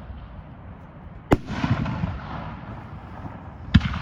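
Aerial fireworks bursting overhead: two loud booms about two and a half seconds apart, the first trailed by a short crackle.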